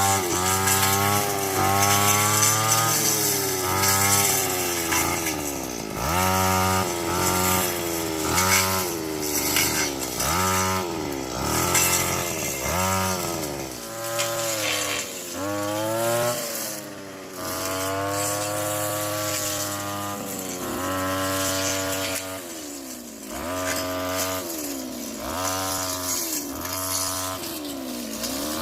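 Chainsaw engine running, its pitch rising and falling again and again as it revs up and slows, with several sharp dips.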